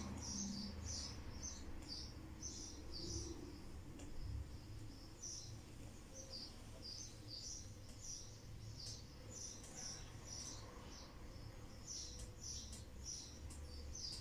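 Faint birds chirping: short high chirps repeating several times a second with small gaps, over a faint low rumble.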